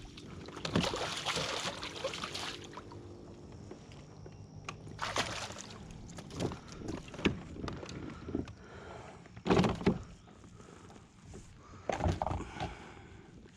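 Water splashing and sloshing around a fishing kayak, with irregular knocks and rustles and a few louder bursts, as a freshly landed bass is handled aboard.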